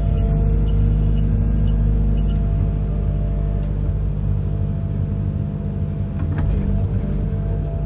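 Amphibious excavator's diesel engine running steadily, a low drone that eases slightly for a couple of seconds midway and then picks up again.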